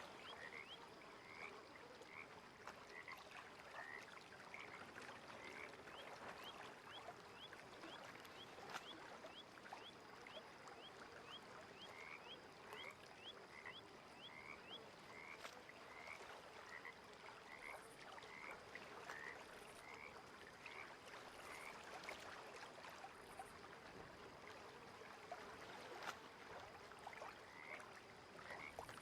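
Frogs calling: runs of short, repeated chirping calls, about two a second, over a faint even hiss of lakeside ambience, with a few sharp clicks.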